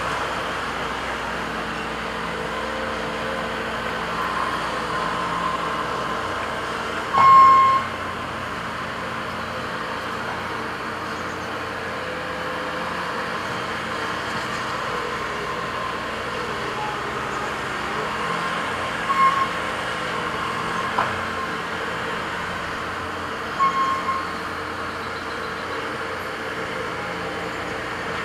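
Heavy equipment engines running steadily. A few short, high beeps sound over them, the loudest about seven seconds in.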